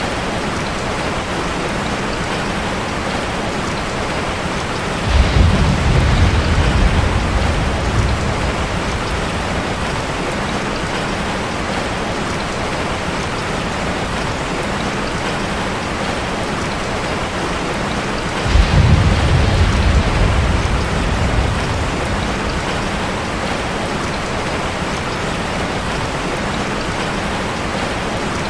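Steady rain drumming on a metal roof, with two low rolls of thunder that start suddenly, about five seconds in and again about eighteen seconds in, each lasting a few seconds and louder than the rain.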